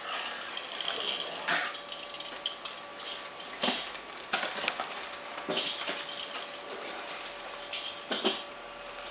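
Packaging being handled as foam model-glider wing halves are lifted out of their box: rustling and light knocks, with sharper clatters about one and a half, three and a half, five and a half and eight seconds in.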